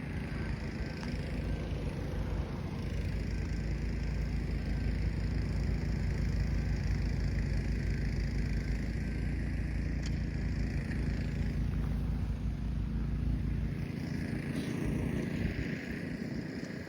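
An engine running steadily at a constant pitch, with a rushing noise over it, fading away near the end.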